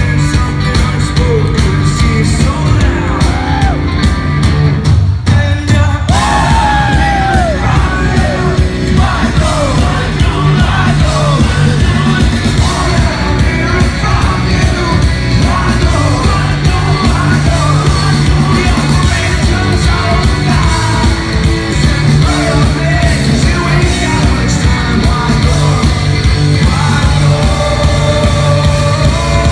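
Live rock band playing loud and dense, with shouted singing over guitar, bass and drums. The music drops out briefly about five seconds in, then comes back under the yelled vocals.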